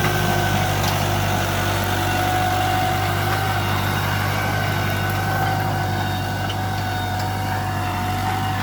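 Tractor engine running steadily at an even speed, with a constant low drone and a faint higher whine over it.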